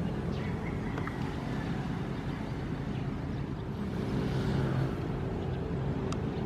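Ocean waves: a steady low rumble of surf, with a wave swelling and washing through about four to five seconds in.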